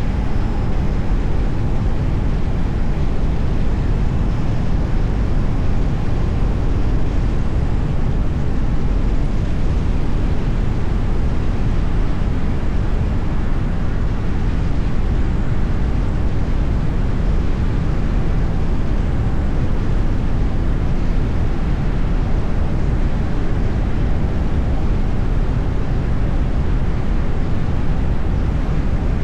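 Steady road and tyre noise of a moving car, a continuous low rumble with no sudden events.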